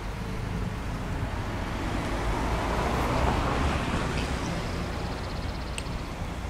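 Road traffic noise, swelling to a peak about halfway through and fading, as a vehicle passes. A low rumble of wind on the microphone runs underneath.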